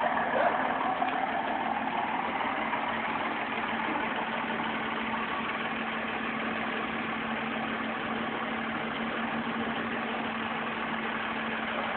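Car engine idling steadily, with a constant low hum over an even rushing noise.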